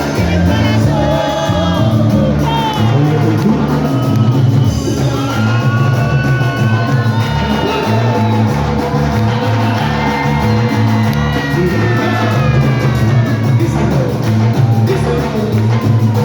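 Live band music with a stepping bass line under a gliding lead melody, with shouts and singing from the crowd mixed in.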